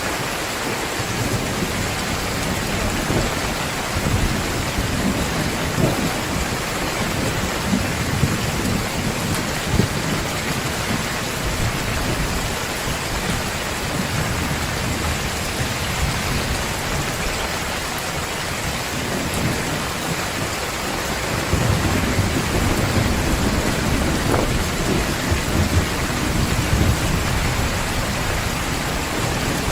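Heavy rain pouring steadily, with thunder rumbling low beneath it. A louder, longer roll of thunder builds about two-thirds of the way through.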